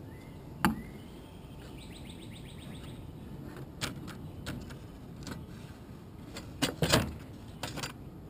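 Tools and metal parts clicking and knocking while the gas tank assembly is unbolted from a lawn mower engine, with a short run of rapid fine clicks about two seconds in and the loudest knocks about seven seconds in.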